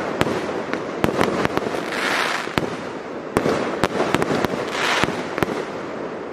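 Fireworks display: a rapid, irregular run of sharp bangs from bursting shells, with two short hissing bursts about two and five seconds in.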